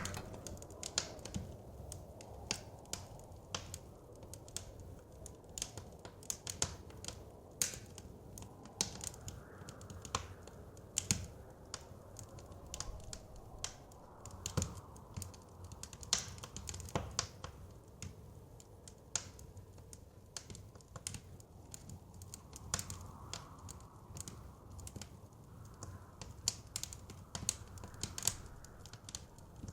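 Wood fire crackling with frequent sharp, irregular pops and snaps, over a low steady rush of blizzard wind that swells now and then.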